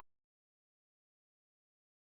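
Silence: the sound cuts off abruptly and the track is empty.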